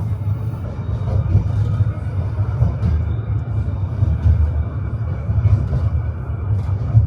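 Tram running along its line, a steady low rumble of the car and its wheels on the rails, with a few faint ticks.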